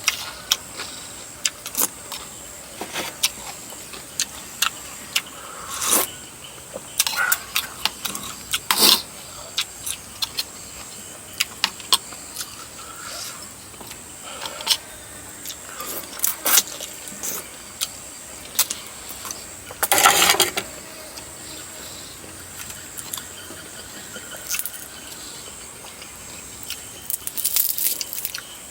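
Eating sounds from a bowl of rice noodles in coconut curry with chicken feet: a spoon or fork clicking and scraping on the dish and chewing, in irregular sharp clicks with a few longer, louder noisy bursts, the loudest about twenty seconds in.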